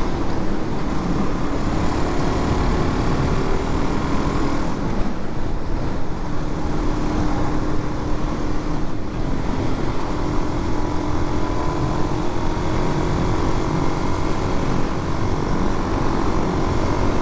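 Suzuki DR-Z400's single-cylinder four-stroke engine running steadily while being ridden, mixed with wind and road noise, its pitch shifting slightly with the throttle.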